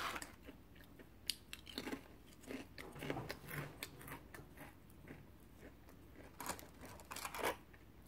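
Close-up chewing and biting of a crunchy cookie: faint, irregular crisp crunches and small clicks.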